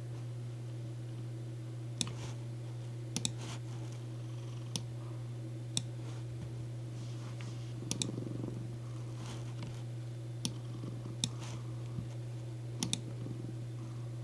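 Scattered single clicks from a computer keyboard and mouse, about ten of them at uneven gaps, some in quick pairs. Under them runs a cat's steady low purr.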